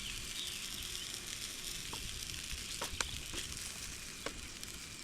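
Food sizzling steadily on a Blackstone flat-top griddle, with a few light clicks of utensils in the middle of the stretch.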